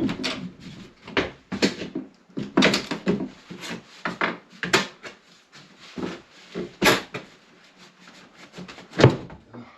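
Irregular knocks, bangs and scrapes of a wall panel being pried at and pulled on, to open the wall to a leaking shower water line.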